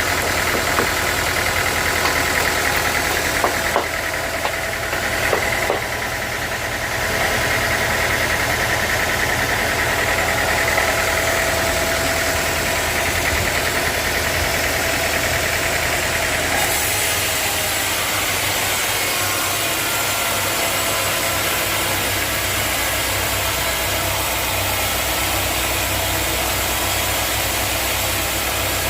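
Sawmill machinery running steadily with a constant mechanical hum, with a few clicks in the first seconds. The sound shifts about two-thirds of the way through as the high hiss eases and the low hum changes.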